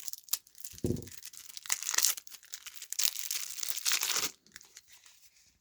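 Thin plastic wrapping crinkling and tearing as it is pulled off a deck of game cards, loudest from about one and a half to four seconds in, then fading.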